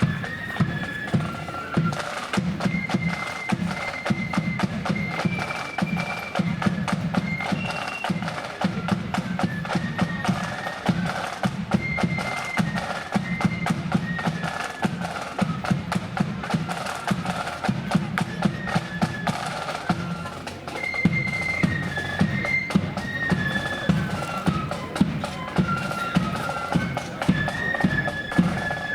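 Marching flute band playing a march tune: a shrill flute melody over bass drum and snare drums beating a steady marching rhythm.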